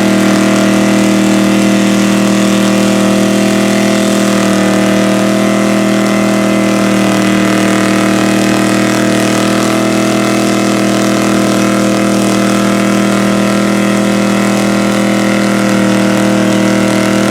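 A vehicle engine idling steadily at an unchanging speed, with no revving.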